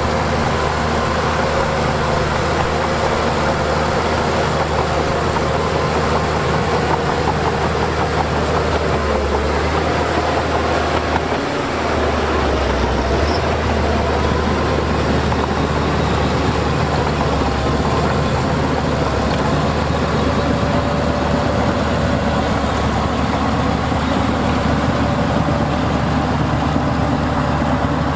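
Heavy diesel earthmoving machinery running steadily, a low engine drone with fainter higher tones that waver up and down in pitch, and a brief dip in level about eleven seconds in.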